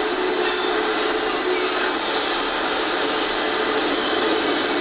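Double-stack intermodal freight train's cars rolling past, a steady rolling noise of wheels on rail with a continuous high-pitched wheel squeal.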